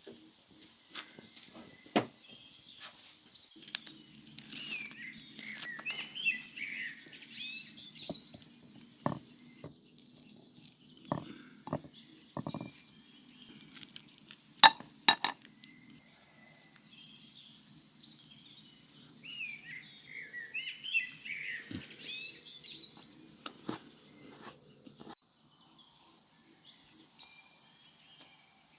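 Birds chirping in two spells, about 4–7 s and 19–23 s in, over scattered sharp knocks and clinks, the loudest about halfway through. A low steady hum runs underneath from a few seconds in until shortly before the end.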